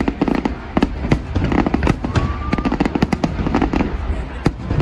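Aerial fireworks shells bursting in quick, continuous succession, several sharp bangs and crackles a second over a low rumble. A brief whistle sounds about two seconds in.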